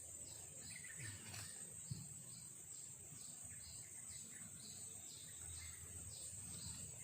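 Insects droning steadily at a high pitch, with a short chirping call repeated about twice a second over it, and a faint tap about two seconds in.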